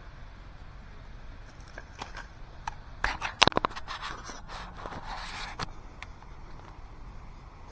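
Knife scraping and whittling a wooden stick, a run of rasping strokes and sharp clicks, the loudest about three and a half seconds in.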